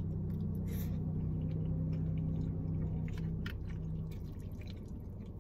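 A person chewing a mouthful of spicy rice cakes and noodles, with small wet clicks and squishes of the mouth, over a steady low hum.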